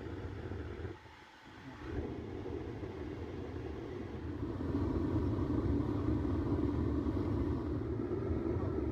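Home-made forced-air LP gas burner, blown by a hair dryer, running in a small melting furnace: a steady low rumble that drops out briefly about a second in and grows louder from about halfway through.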